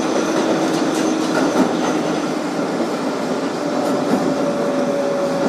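Steady noise inside a 2012 Kawasaki R-188 subway car, with a low steady hum that fades about two seconds in and a higher steady hum that starts a little after halfway.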